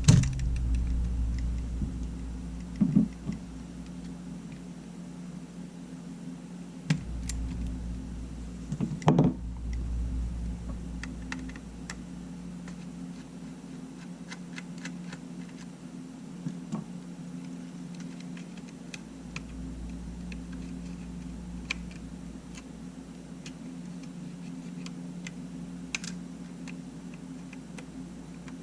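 Light clicks and taps of small tools and camera parts being handled during a camera repair, scattered irregularly with a couple of louder knocks, over a steady low hum.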